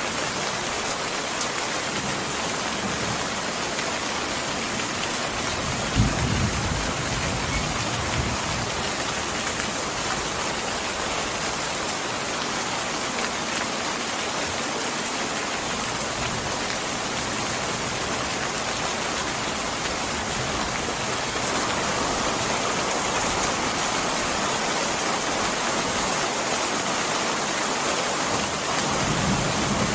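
Steady rain, a little heavier after about twenty seconds, with a brief low thump about six seconds in.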